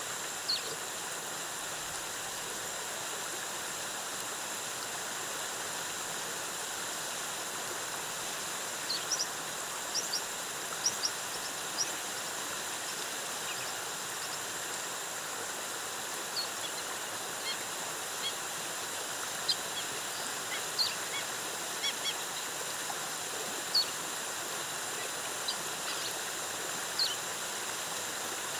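Waterfall cascading with a steady rush, with short, high bird chirps scattered over it, most of them from about nine seconds in.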